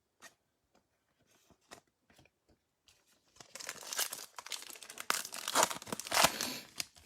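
A few faint clicks of handling, then, from about three and a half seconds in, a trading card pack's wrapper being torn open and crinkled, loud and crackly.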